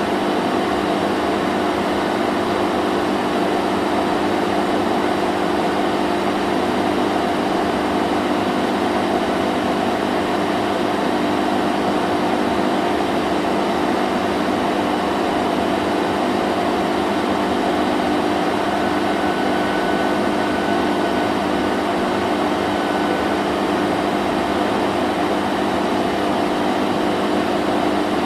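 Vacuum cleaner motor running continuously at a steady pitch, a constant whooshing drone with a low hum underneath.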